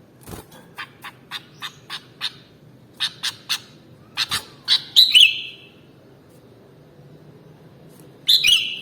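Sooty-headed bulbul calling: a run of short sharp chirps, about three or four a second, then louder notes that break into a warbled, falling phrase about five seconds in, and another such phrase near the end.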